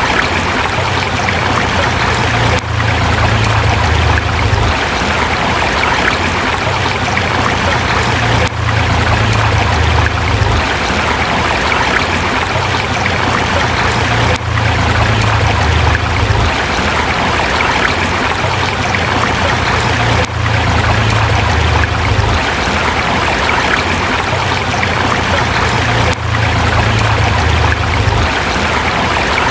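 River water running over rocks in a steady, full rush, with a brief dip in level about every six seconds.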